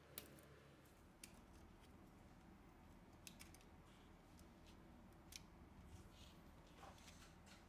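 Near silence: a steady low room hum with a few faint, sharp clicks.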